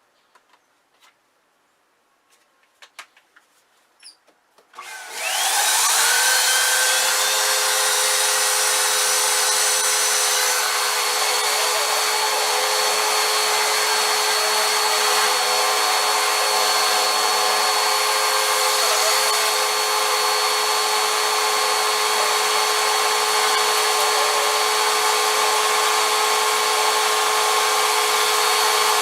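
A few light clicks and knocks, then about five seconds in a vacuum cleaner motor switches on, its whine rising quickly to full speed, and runs steadily and loudly with a high whine.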